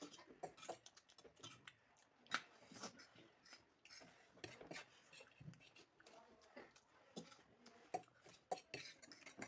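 Cutlery clicking and scraping on plates during a meal of chowmein: scattered light taps and clinks, the sharpest about two seconds in.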